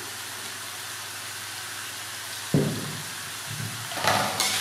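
Lemongrass paste sizzling in an aluminium wok, a steady hiss. A dull knock comes about two and a half seconds in, and a ladle scrapes and stirs against the wok near the end.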